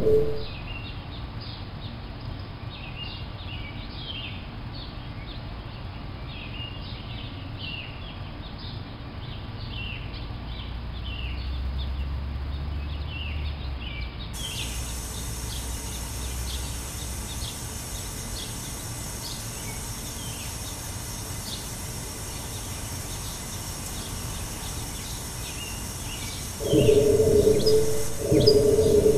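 Birds chirping over a steady outdoor background. Near the end a much louder, pulsing sound sets in, repeating about once a second.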